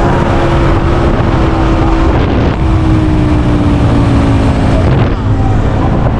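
Fairground thrill ride's drive machinery running loudly: a steady low drone with a few tones that slowly fall in pitch, breaking twice.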